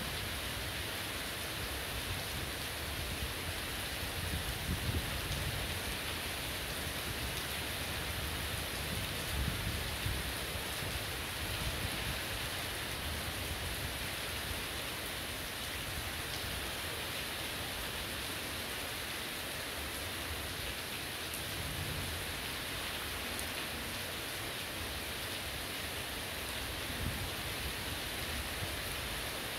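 Heavy rain falling steadily, an even hiss of a downpour on ground, leaves and roofs. A few brief low rumbles rise under it, about five and ten seconds in.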